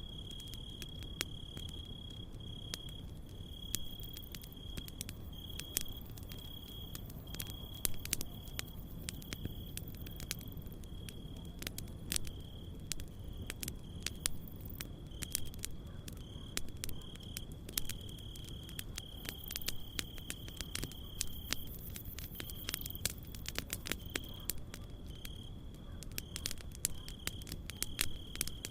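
Campfire crackling, with many sharp pops and snaps, over a steady low hiss. Crickets trill throughout in a high, pulsing note.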